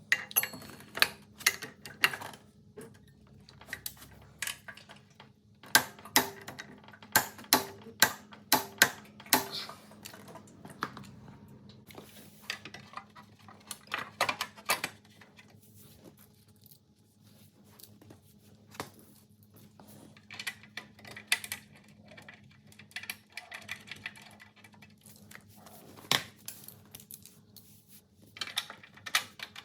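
Metal hand tools clicking and clinking on mini bike engine parts during reassembly, in bursts of sharp clicks with pauses between.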